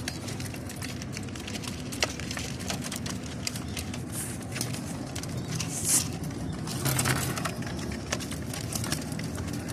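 Pigeons cooing low, with scattered small clicks and scuffs and two short rustling bursts about six and seven seconds in.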